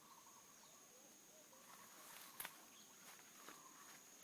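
Very quiet outdoor jungle ambience: a steady high-pitched insect drone with faint wavering bird calls, and one sharp click about two and a half seconds in.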